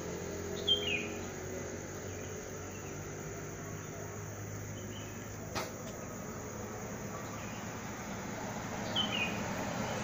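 A bird calling twice, a short downward-sliding chirp about a second in and again near the end, over a steady low hum. A single sharp click midway.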